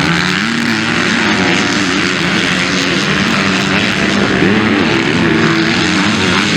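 Several motocross bike engines running hard on track, their pitch rising and falling as the riders rev, shift and back off.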